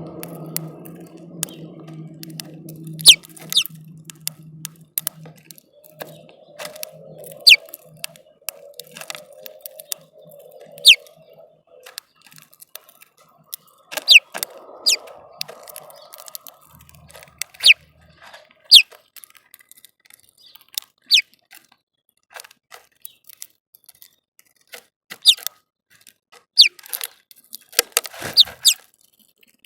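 Small birds at a feeder: short, high chirps falling quickly in pitch, one every second or few, amid many sharp clicks and taps of beaks pecking at seed and the feeder close to the microphone.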